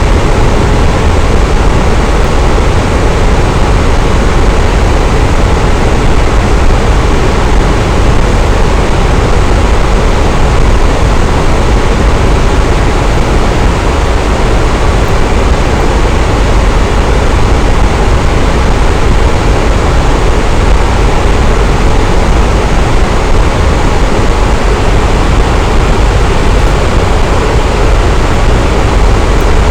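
Electric fan running steadily: a continuous whooshing rush of moving air, deepest at the bottom, with no clicks or changes.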